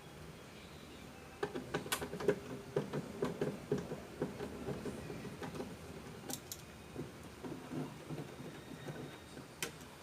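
Quick run of light clicks and taps from parts of an egg incubator being handled and cleaned, several a second for a few seconds, thinning out after the middle.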